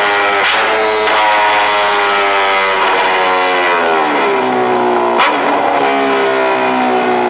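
Superbike engine and exhaust at high revs. The pitch holds, then drops as the revs fall, with a sharp crack about half a second in and another about five seconds in. It cuts off suddenly at the end.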